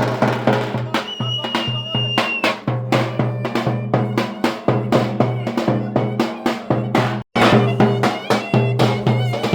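Traditional Turkish folk dance music: a driving drum beat over a steady low drone and a melody line. It cuts out for an instant about seven seconds in.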